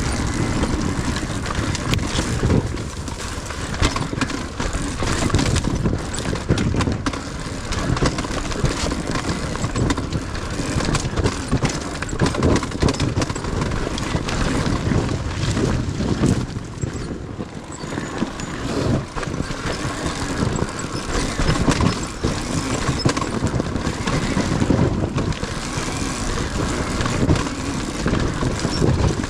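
Yamaha YZ250FX dirt bike's 250cc four-stroke single-cylinder engine under way on a trail, the throttle opening and closing so the engine note rises and falls every second or two.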